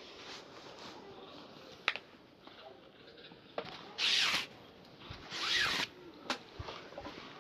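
Two short, scratchy strokes, about a second apart, of a brush working a shoe during a shoe shine, with a sharp tap about two seconds in.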